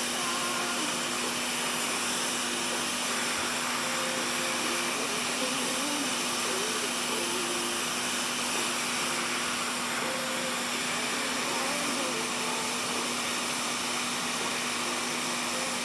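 Steady blowing hiss of air from a blower or fan, unbroken throughout, with faint wavering pitched sounds underneath.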